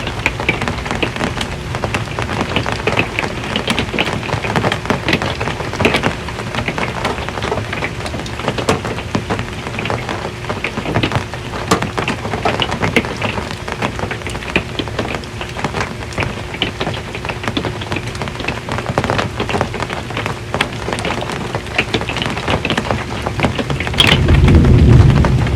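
Rain drumming on an RV's metal roof: a dense, steady patter of sharp drop taps. Near the end a loud low rumble of thunder breaks in.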